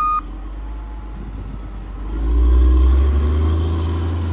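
Heavy snow-clearing machine: its backup alarm gives a last beep, then its engine runs and revs up louder about two seconds in.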